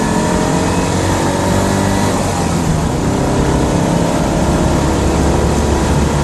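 A 1980 Citroën Dyane 6's air-cooled 602 cc flat-twin engine running under way, heard inside the cabin as a steady, noisy drone with road and wind noise.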